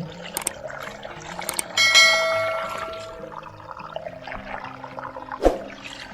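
Shallow running water trickling and splashing, with one sudden bell-like ringing tone about two seconds in that fades away over a second or so, and a sharp knock near the end.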